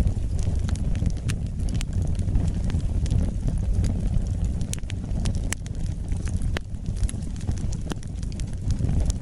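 Wood fire burning with a steady low rumble of flames and scattered sharp crackles and pops.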